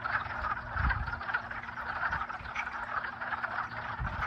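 A dense chorus of many frogs calling at once from a pond, their calls overlapping into a continuous trilling mass, the kind of chorus the speaker takes for frogs mating. Two brief low bumps come about a second in and near the end.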